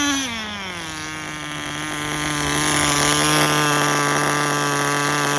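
Tamiya TGS-R nitro RC car's small glow engine coming down off a rev, then running at a steady part-throttle note that grows louder about two seconds in. It is held off full throttle to bring the engine temperature down; the owner suspects a worn motor needing a rebuild.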